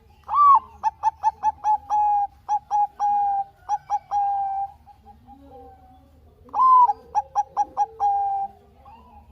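Zebra dove (Bangkok-type perkutut) singing its cooing song twice: each phrase opens with a higher note, runs into a quick string of short, clipped coos and ends on a longer drawn-out coo. The first phrase is long; the second begins about six seconds in and is shorter.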